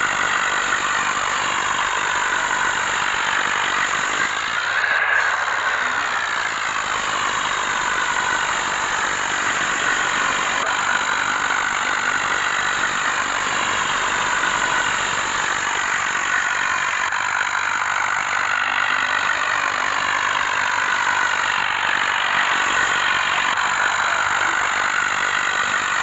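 Sonalika tractor engine running steadily without a break, with a high, squeal-like mechanical whine over it.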